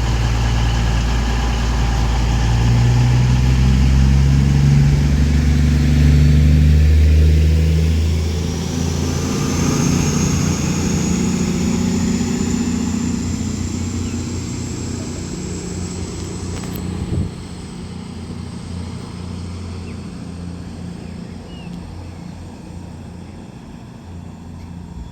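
Class 221 Super Voyager diesel-electric multiple unit pulling away. Its underfloor diesel engines rev up with a deep drone that rises in pitch. A high whine then climbs slowly in pitch, and the sound fades as the train moves off.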